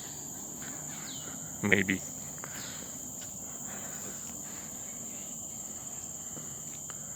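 Steady, high-pitched chorus of forest insects, a continuous whine, with a few short falling chirps over it.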